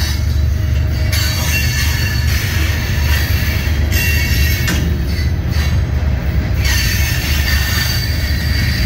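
Loaded ballast hopper cars of a freight train rolling past close by: a steady heavy rumble of wheels on rail, with high wheel squeal that sets in about a second in, drops out for a few seconds midway and returns near the end.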